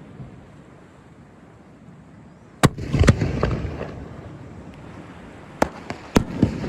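Fireworks bursting overhead. A loud bang comes about two and a half seconds in, with a second just after it that rolls on in a rumbling echo; near the end there is a quick run of four sharper cracks.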